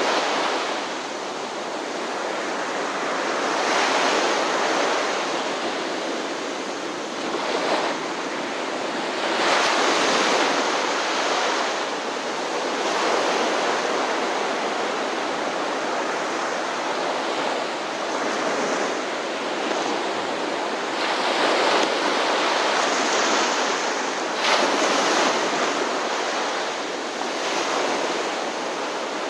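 Ocean surf: waves breaking and washing in, rising and falling in swells every few seconds over a continuous hiss of water.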